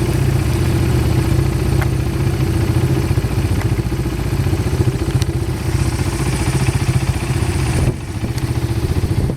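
Quad bike engine idling steadily with a fast, even low pulse; the sound drops off briefly about eight seconds in, then comes back.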